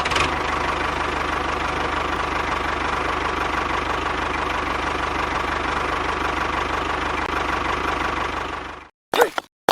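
A small motor running steadily with a constant whine and a fast, even low rattle, then cutting off abruptly near the end, followed by two short bursts of sound.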